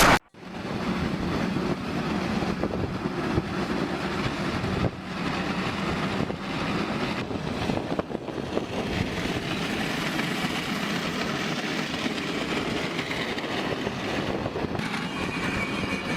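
A brief loud burst cuts off at the very start. Then comes the steady running noise of a vehicle on the move: engine and road rumble with a low hum.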